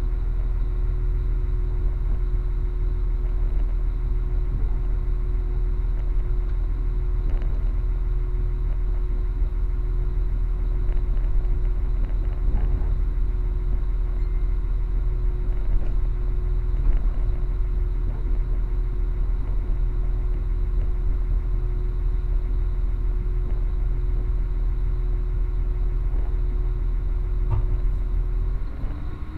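Passenger train running, heard from inside the carriage: a steady low rumble with a steady droning hum and a few faint knocks. Near the end the rumble drops away and the hum bends in pitch.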